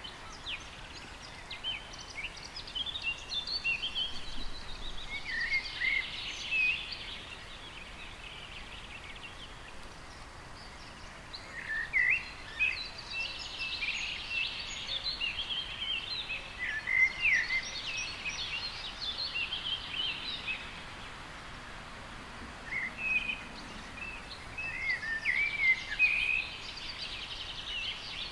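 Birds singing: quick chirping and warbling phrases over a steady background hiss, in three long stretches with short lulls between.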